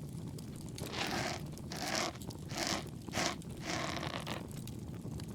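Ear pick scraping close to the ear in about five short, scratchy strokes, over a steady low bonfire crackle.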